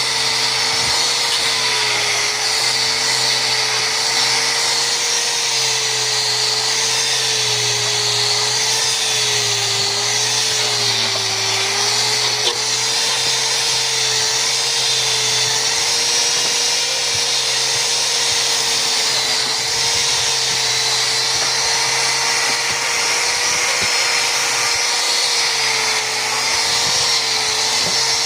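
Electric power tool polishing teak wood, its motor running steadily with a whirring hum that dips slightly in pitch now and then as it meets the wood.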